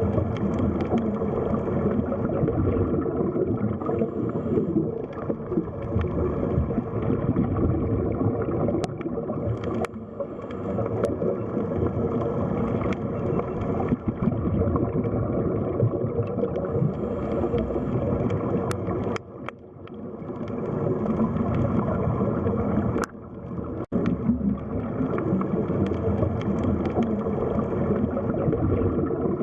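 Underwater sea ambience: a steady, muffled rush of water with gurgling and a few faint clicks, dropping away briefly twice about two-thirds of the way in.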